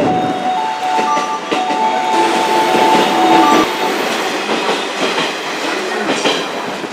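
JR West electric train moving along the platform, its wheels clacking over rail joints. A few steady notes at different pitches sound over it in the first half.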